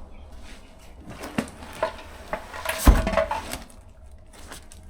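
A seat in an old passenger train car being shifted and dragged into place: a run of knocks and clatter, the loudest a heavy thump just before three seconds in.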